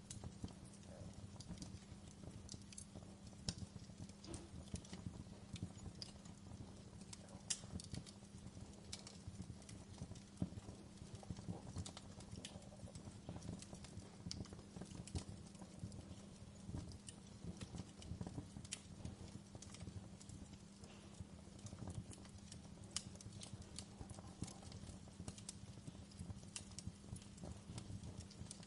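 Wood fire in a fireplace crackling, with irregular sharp pops and snaps over a steady low rumble and hum.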